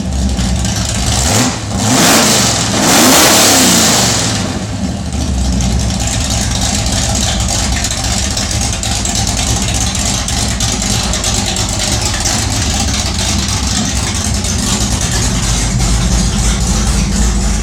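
1969 Dodge Dart's 340 V8, cold, revved twice in quick succession and then settling into a steady idle with a deep rumble.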